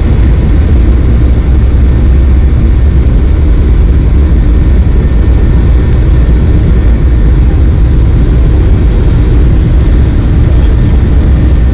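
Steady, loud cabin noise of a Boeing 737-800 in the climb after takeoff. The rumble of its CFM56 turbofan engines and rushing air sits mostly in a deep, even drone that does not change.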